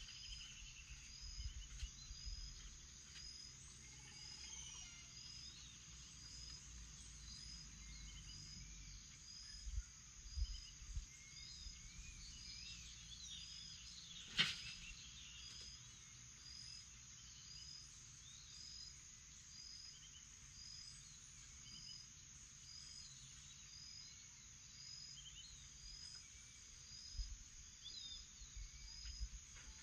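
Morning birdsong over a steady high insect drone, with a high chirp repeating about once a second and scattered bird calls. A single sharp click comes about halfway through.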